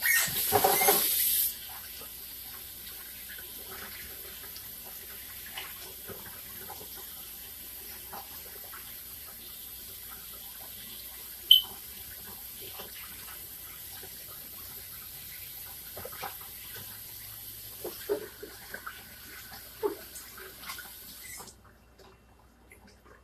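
Kitchen tap running into a sink: a loud gush as it opens, then a steady stream that is shut off about twenty seconds later, with a sharp click and a few small knocks in the stream near the end.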